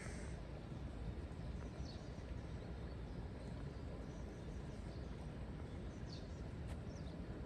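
Faint bird chirps now and then over a steady low rumble of outdoor background noise.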